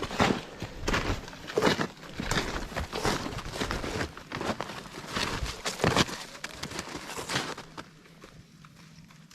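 Snowshoe footsteps crunching in fresh snow, about one step every 0.7 seconds, stopping near the end.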